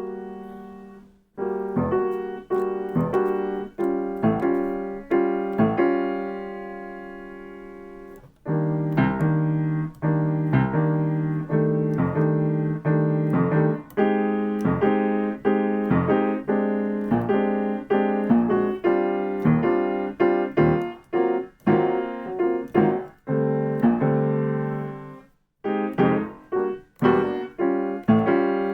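Piano playing jazz comping patterns: short chords struck again and again in a steady rhythm. About six seconds in, one chord is held and left to fade for a couple of seconds, and there is a brief break a few seconds before the end.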